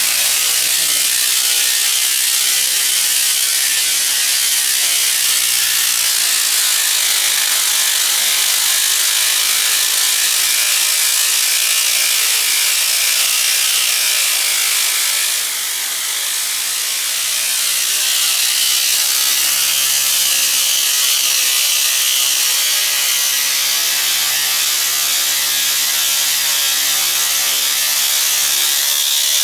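Rea Tornado belt cleaner running on a modular conveyor belt: a steady hiss over a continuous mechanical rattle, with a low hum underneath. The level dips briefly about halfway through.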